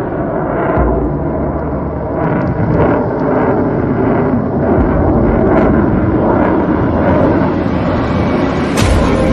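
Rocket motor at launch: a steady, loud rumble with crackle that grows slightly louder, and a sharper crack near the end.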